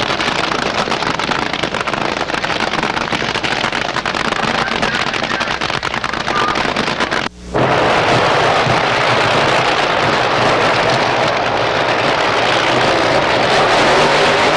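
Drag-racing car engines running loud and rough, with a brief dropout about seven seconds in where the film is spliced.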